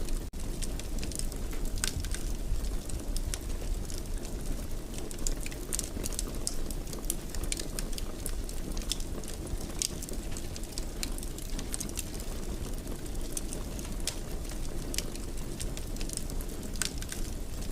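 Wood fire crackling in a fireplace: a steady low rumble of the flames with many small, irregular pops and snaps.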